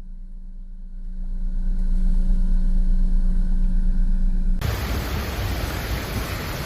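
Outdoor storm-footage sound: a low rumble with a steady hum that swells over the first few seconds. About two-thirds of the way through it cuts abruptly to a loud, steady rushing of wind and water.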